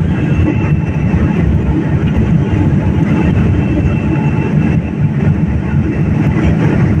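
Cabin noise inside a Boeing 787 airliner: a loud, steady rumble of engines and airflow with no pauses.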